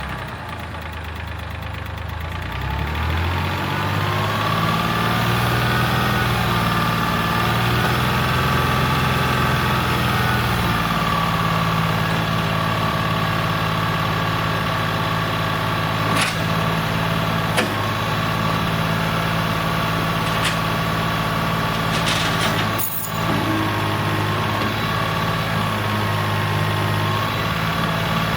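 Tractor engine running: its speed rises over the first few seconds, then it settles into a steady idle, with a few sharp clicks in the second half.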